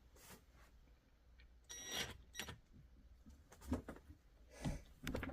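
Scattered metallic clinks and knocks of hand tools being handled, about five separate hits, one near 2 seconds in ringing briefly.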